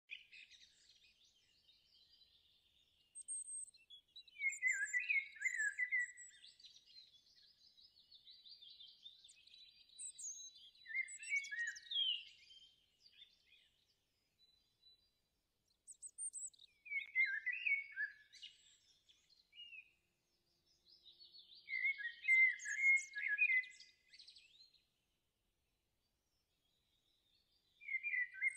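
A songbird singing: phrases of quick chirps and trills a few seconds long, repeated with short pauses between them.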